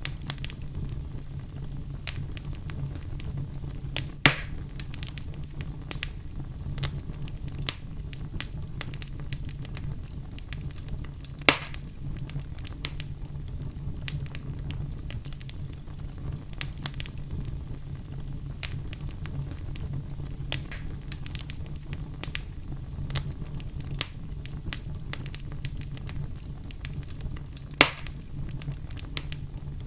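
Fire in a fireplace crackling steadily over a low rumble, with many small snaps and three louder pops spread through.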